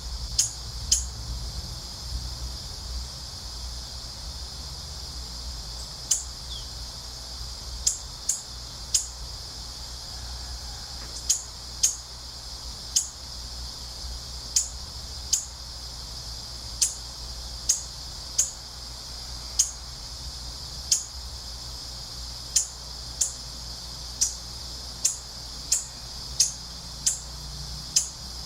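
A bird repeating short, high, sharp chirps, each flicking down in pitch, about once a second and sometimes in quick pairs, over a steady high hiss and a low wind rumble.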